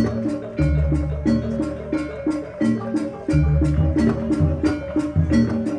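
Javanese barongan dance accompaniment: drums beat under quick, even strikes about four a second, over a steady held tone.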